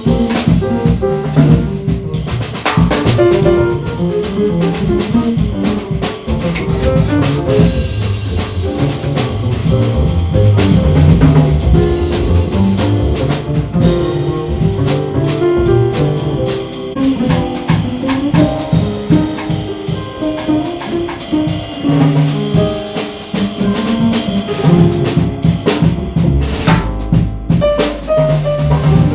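Jazz piano trio playing: piano, bass and drum kit, with steady cymbal and drum strokes under the piano and bass lines.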